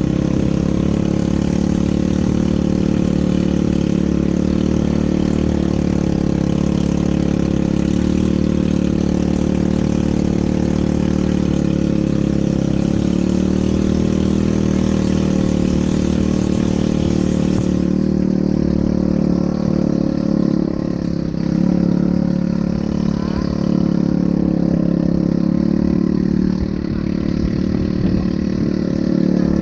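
ATV engine running steadily. The higher hiss over it drops away abruptly a little past halfway.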